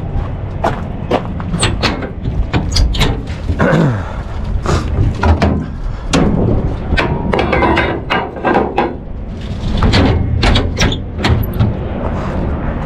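Irregular metallic clanks and knocks from work on a truck wheel, a dozen or more at uneven spacing, over a steady low hum, with a brief falling squeal about four seconds in.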